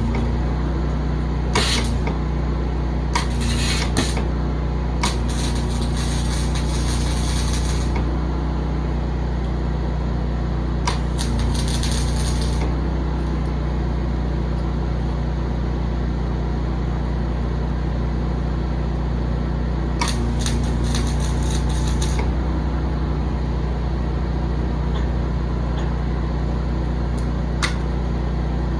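A steady low machine hum with several bursts of crackling hiss, each one to three seconds long, a few seconds apart at first and once more about twenty seconds in.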